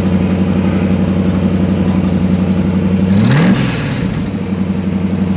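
Hot-rodded 1923 Ford Roadster's 350 small-block Chevy V8 idling steadily. It is blipped once about three seconds in, the pitch rising quickly and dropping back to idle.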